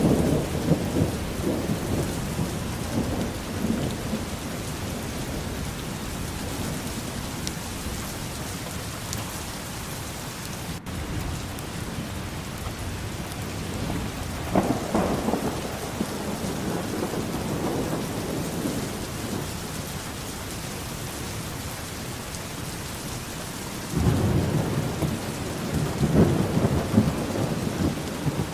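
Steady rainfall with low rolling thunder that swells three times: near the start, about halfway through, and again near the end.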